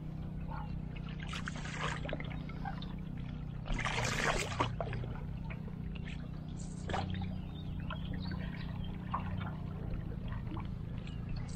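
Wooden canoe paddle strokes in lake water: splashes and trickling drips as the blade goes in and comes out, a stroke every couple of seconds, the biggest about four seconds in. A steady low hum runs underneath.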